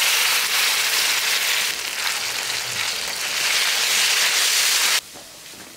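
Tomato paste sizzling loudly in hot oil with fried onions in a metal wok, a steady hiss that cuts off suddenly about five seconds in.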